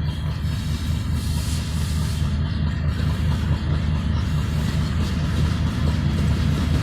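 Diesel locomotive engine running with a steady low rumble, growing slightly louder.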